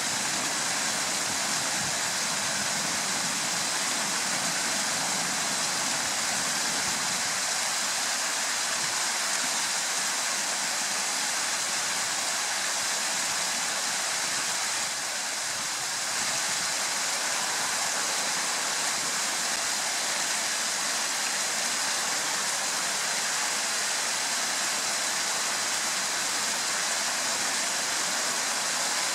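Steady rush of flowing stream water, with a faint steady high tone over it.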